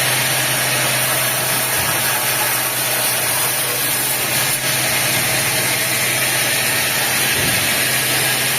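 Sawmill machinery running steadily: an engine-like drone with a constant low hum and a dense high hiss over it, no break in the noise.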